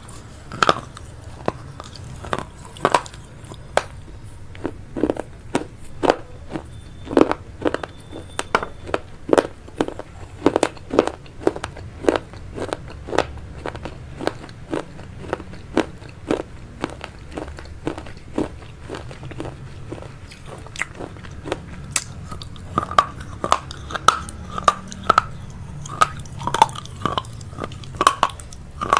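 Close-miked chewing of vegetable chow mein eaten by hand, with sharp wet mouth clicks and crunches about two a second.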